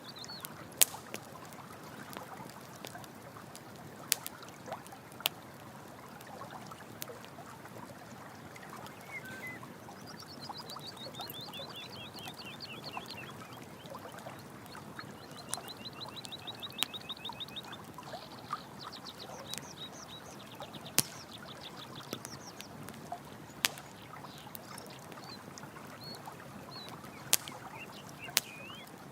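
Campfire crackling with occasional sharp pops over steady running water. A high, rapidly pulsing animal trill runs for about ten seconds in the middle.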